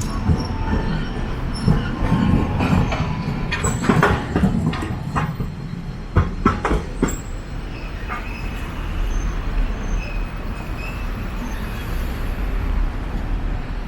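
Nagasaki Electric Tramway streetcar running on its rails: a steady low rumble with a run of sharp clacks from the wheels over the first seven seconds, then a few faint high squeaks.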